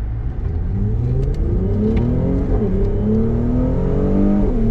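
Mercedes-AMG C43's twin-turbo V6 accelerating hard, heard from inside the cabin. The engine note climbs through the revs, with upshifts about two and a half seconds in and again near the end.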